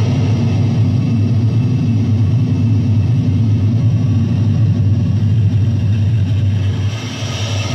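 Electronic noise music: a loud, steady droning rumble with hiss above it. It dips briefly near the end, then the hiss comes back stronger.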